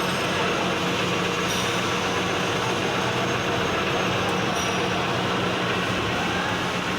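Metal lathe running steadily with its motor hum while drilling into the workpiece, with two brief high squeaks about one and a half and four and a half seconds in.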